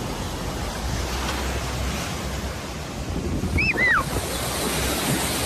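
Steady rushing noise of floodwater and wind buffeting the microphone, with a couple of short, high, falling calls about three and a half seconds in.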